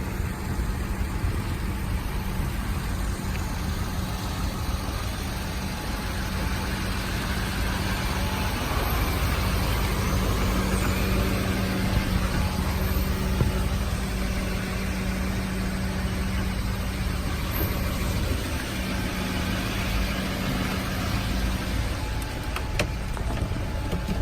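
GMC 5500 bucket truck's engine running steadily at idle with the PTO engaged, driving the boom's hydraulics, a constant hum with a held low tone, a little louder in the middle.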